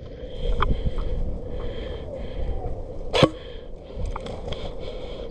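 Low rumble of movement and handling noise on the microphone, with a few faint clicks and one sharp crack about three seconds in, the loudest sound.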